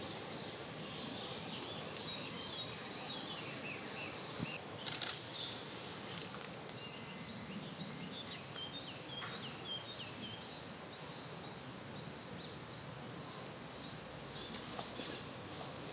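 Small birds chirping and twittering in quick short notes over a steady outdoor hiss, with a brief knock or rustle about five seconds in.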